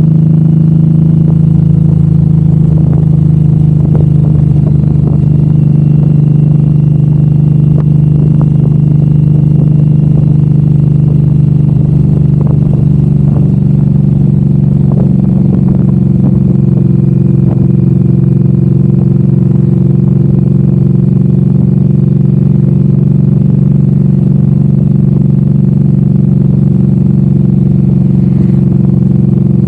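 Suzuki M109R's 1783 cc V-twin engine running at a steady, even pitch while the bike is ridden, with a few light clicks and rattles in the first half.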